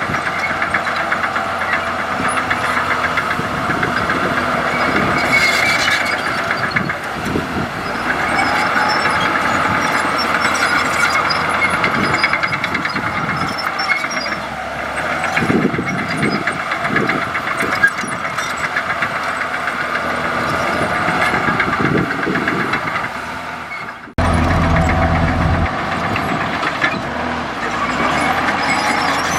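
Komatsu D65E bulldozer's diesel engine running steadily under work, with scattered heavy knocks, and a sudden break about three quarters of the way through before the machine sound resumes.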